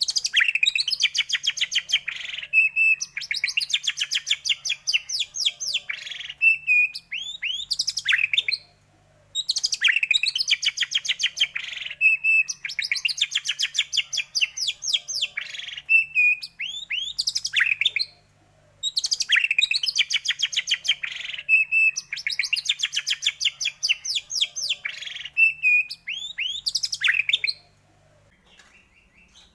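White-rumped shama (murai batu) song: a fast, dense chattering trill, then a short held note and a few sweeping whistles. The same phrase repeats about every nine to ten seconds with short pauses between, as a looped lure track meant to provoke a captive shama into singing.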